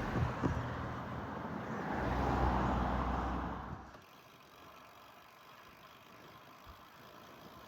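A motor vehicle passing on the road, its engine and tyre noise swelling to a peak and then dropping away sharply about four seconds in, leaving a quiet, steady background hiss.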